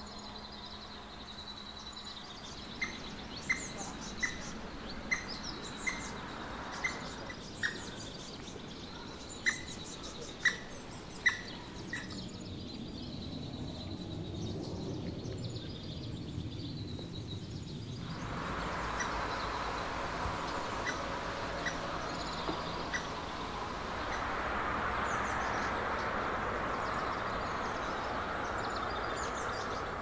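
A bird gives about ten sharp single call notes, roughly one a second, over the first dozen seconds, among fainter high chirping of other forest birds. About halfway through, a steady rushing noise comes in and holds.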